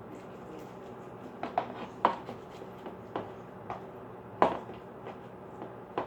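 A handful of light, irregular knocks and clicks from objects being handled, the two loudest about two seconds and four and a half seconds in, over a faint steady hum.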